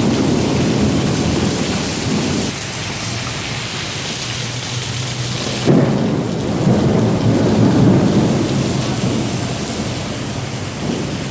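Rain beating on a car during a thunderstorm, over a steady low rumble. A single sharp knock comes about six seconds in.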